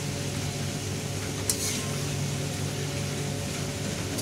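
Lote (Bombay duck) fish in masala sizzling gently in an aluminium kadai, with a steady soft hiss over a low hum, as a spatula slowly mixes it; one light tap about one and a half seconds in.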